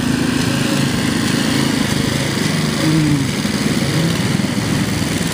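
Ariens lawn tractor's 8 hp Tecumseh single-cylinder engine running, its pitch shifting a little up and down.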